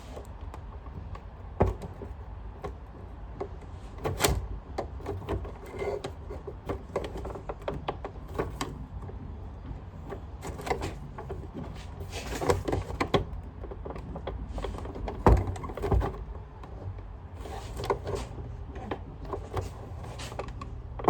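Handling noises from fitting the bag back onto a Sanitaire upright vacuum: scattered clicks, knocks and rattles of plastic parts being pushed and worked into place, over a steady low hum.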